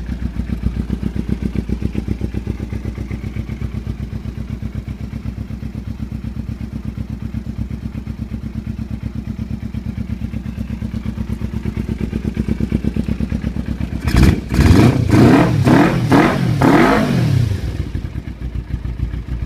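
2008 Kawasaki Ninja 250R's parallel-twin engine idling low and steady through a Yoshimura aftermarket exhaust, then blipped several times in quick succession near the end, each rev rising and falling, before dropping back to idle.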